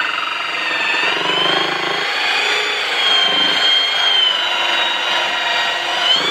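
Electric drill running with a steady whine that sags and rises in pitch as the load on the bit changes.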